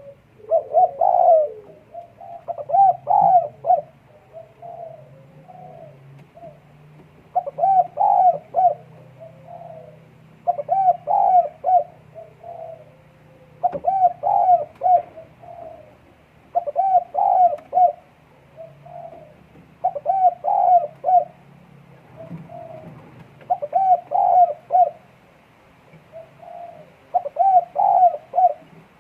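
Doves cooing in breeding condition: a short phrase of quick coo notes repeated every three seconds or so, about nine times.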